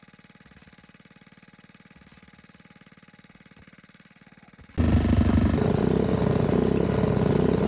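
Faint, steady small-engine idle, then, a little over halfway through, a sudden jump to a loud small motorcycle engine running under throttle close by, its pitch wavering slightly as it pulls.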